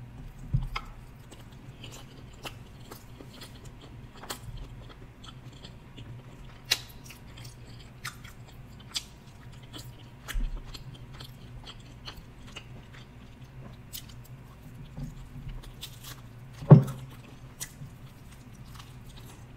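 Close-up chewing and biting of a slice of deep-dish pizza and its crust, with scattered wet mouth clicks and smacks. One louder short sound comes near the end.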